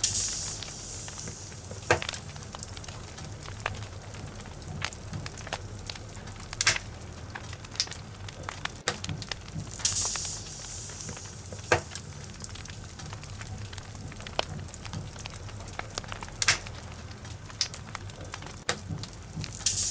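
Wood logs burning in a fireplace: irregular sharp crackles and pops over a steady low rumble of flames, with brief louder bursts of hiss about every ten seconds.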